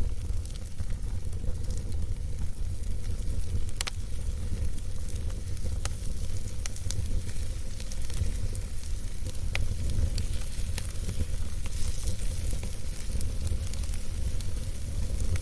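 Campfire burning: a steady low rumble of flames with a hissing sizzle and scattered sharp crackles and pops of burning wood.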